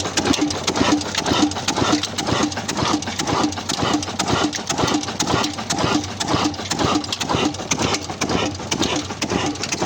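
Old Ruston diesel engine running steadily as it drives a tube well, with an even beat about twice a second and fine rapid ticking between the beats.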